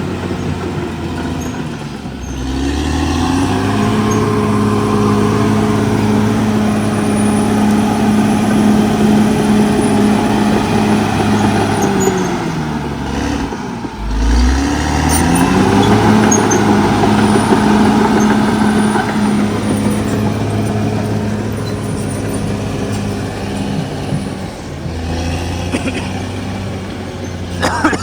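Cat D6R XL bulldozer's diesel engine running steadily under load. It drops in revs and climbs back up twice, about two seconds in and again around the middle.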